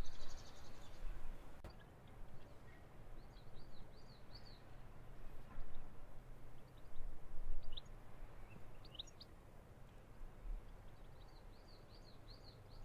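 Small birds singing outdoors: runs of quick, high, repeated chirps, with a few sharp single notes in between, over a steady low background rumble.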